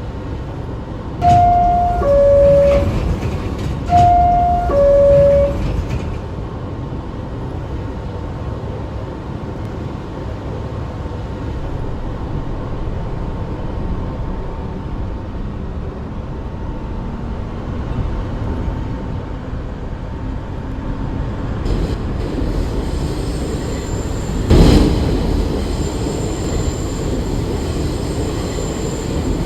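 New York City subway train's two-tone descending chime, high note then lower, sounds twice in the first six seconds. It is followed by the steady rumble of the train on the rails, with a hiss coming in near the end and a sharp loud burst about 25 seconds in.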